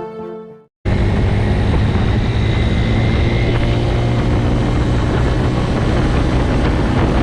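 A motorcycle riding at a steady speed: the engine's steady low hum under loud wind rush. It cuts in abruptly about a second in, after music fades to a brief silence.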